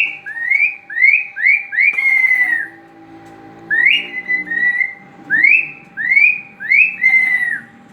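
A series of loud whistled notes, each sweeping up sharply and then levelling off. They come in two runs of about five, with a pause near the middle. A faint steady hum lies underneath.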